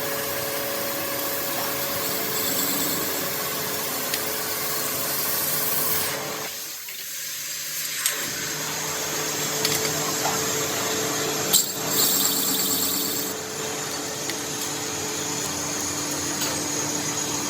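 Workshop machinery running steadily, with a faint hum under an even noise. The noise drops briefly about seven seconds in, and there is a sharp click a little past the middle.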